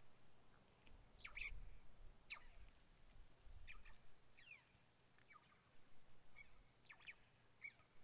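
Faint, high bird calls: short chirps and quick downward-sweeping whistles, about ten of them scattered half a second to a second apart.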